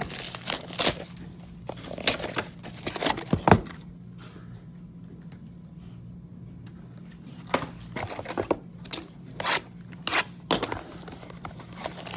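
Crinkling and tearing of trading-card pack wrappers, with cards and packaging handled, in two spells of sharp rustles separated by a quieter pause of a few seconds.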